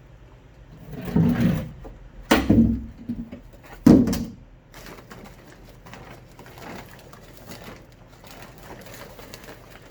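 Three loud thuds with rustling, about a second and a half apart, as a jumbo bag of compost is handled, followed by quieter shuffling.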